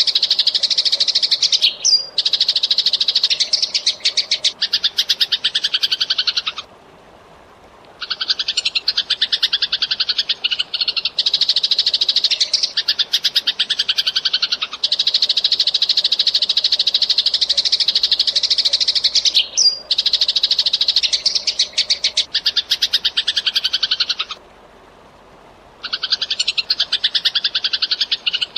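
Eurasian tree sparrow chattering vigorously in long, dense runs of rapid chirps, broken twice by pauses of about a second and a half.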